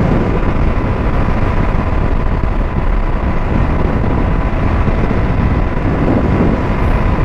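KTM Duke 200's single-cylinder engine running at a steady speed, under a heavy rush of wind noise on the microphone.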